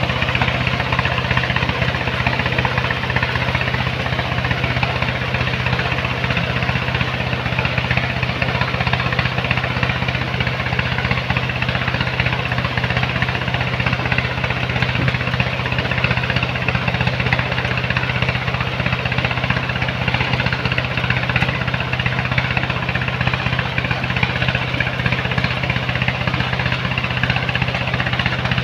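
The engine of sand-mining machinery running steadily at a constant speed, a low hum under a dense mechanical noise that does not change.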